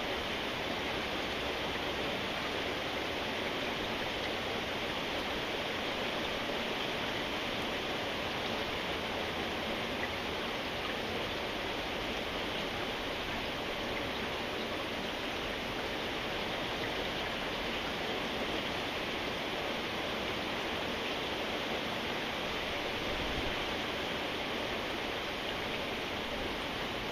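Steady rainfall: an even, unbroken hiss with no single drops or other sounds standing out.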